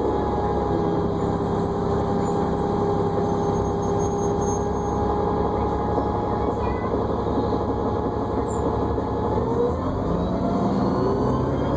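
New Flyer D40LFR diesel transit bus heard from on board, its engine and drivetrain running with a steady whine, which rises in pitch near the end as the bus picks up speed.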